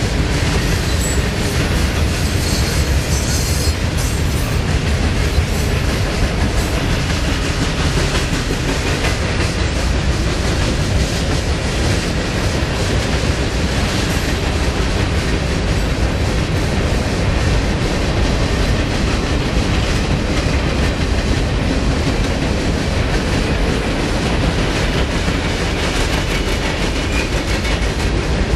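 Cars of a long CSX mixed freight rolling past at speed: a steady, loud rumble of steel wheels on rail, with a continual clickety-clack of wheels over the rail joints.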